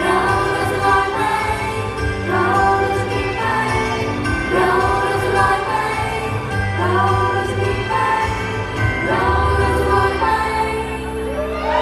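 Upbeat pop song performed live: a group of young women singing together in unison over a backing track with a steady bass, in phrases of about two seconds.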